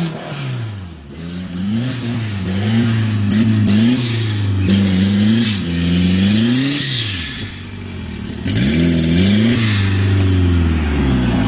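Turbocharged Nissan CA20ET four-cylinder engine revving up and down over and over. The revs and loudness dip about a second in and again near eight seconds, then climb back up.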